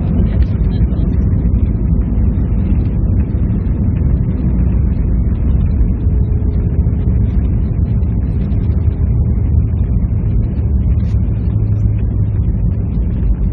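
Steady, loud low rumble of an Airbus A320-214 heard inside its cabin: the CFM56 engines and the airflow over the airframe.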